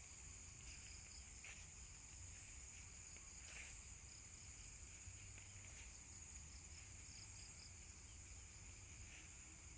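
Faint, steady high-pitched drone of insects, with a lower, patchier layer of chirping running under it.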